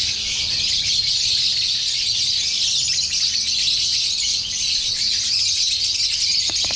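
A dense, steady chorus of many caged lovebirds chirping together, a continuous high-pitched chatter.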